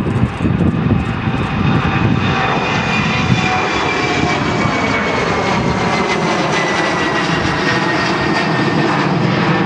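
Airliner's engines running loud and steady as it passes, with a high whine that slowly falls in pitch.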